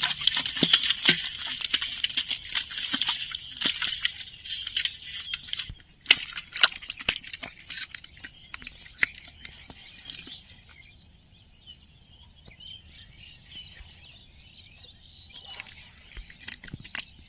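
Water splashing and sloshing with sharp clicks for about six seconds, then much quieter with only scattered light clicks and taps.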